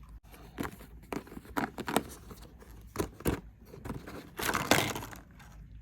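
Craft-kit packaging being torn open and handled: crinkling and rustling with scattered clicks and taps, and a longer rustle near the end.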